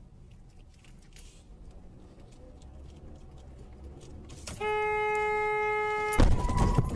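Car horn blowing one steady note for about a second and a half, over low vehicle rumble. Then, near the end, loud ragged noise takes over.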